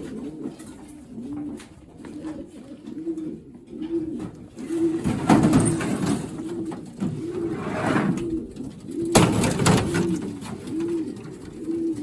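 Racing pigeons cooing in a loft, a low arched coo repeating about every two-thirds of a second, with two louder noises about five and nine seconds in.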